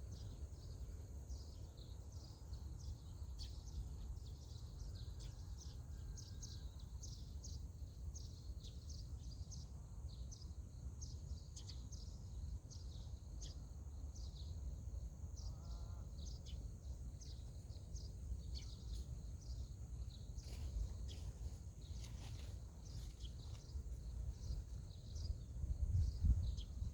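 Outdoor ambience: a low wind rumble on the microphone, with frequent short, high chirps over a steady high hiss. The rumble grows louder near the end.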